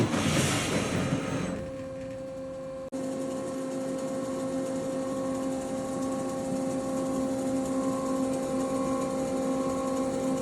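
Turret punch press on stainless steel sheet: a noisy rush after its punching strokes fades over the first second and a half, then after a sudden break the machine hums steadily, with a higher tone pulsing on and off roughly every 0.7 seconds.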